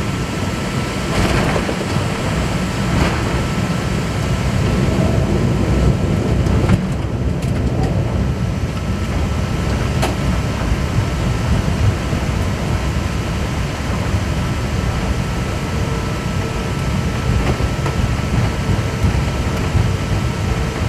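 Airbus A380 jet noise: a loud, steady, low rumble of engines and rushing air, with a few faint clicks.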